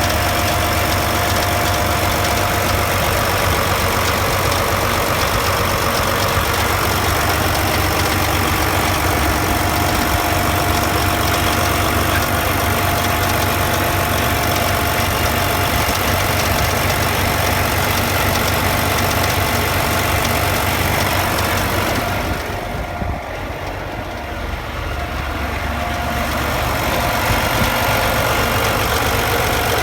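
An engine running steadily at idle. About two-thirds of the way through it briefly goes quieter and duller, then comes back to its earlier level.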